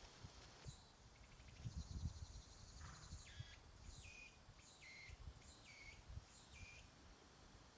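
Faint series of about six short, high animal chirps, roughly one every half second, over low rumble from wind on the microphone.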